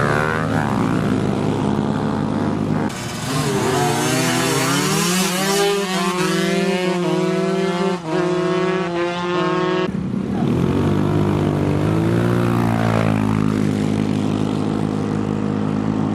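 Small motorbike engines revving and accelerating, their pitch climbing and falling, in several abruptly cut segments.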